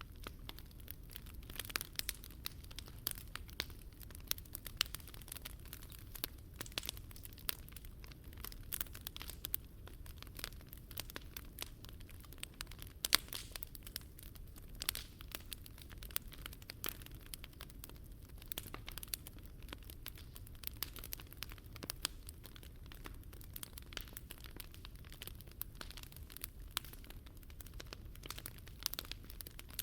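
Wood campfire crackling, with a constant patter of small pops and snaps and an occasional louder pop.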